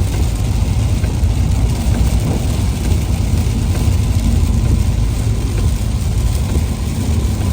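Car driving on a rain-soaked highway: a steady low rumble of engine and tyres with an even hiss of wet road and rain.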